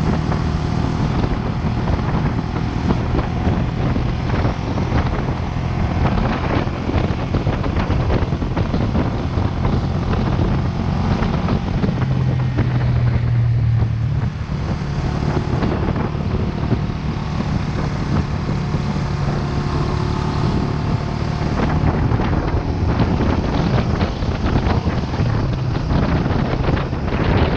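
Vento Lucky 7 motorcycle engine running while riding, its pitch shifting now and then with the throttle, with wind noise over the microphone.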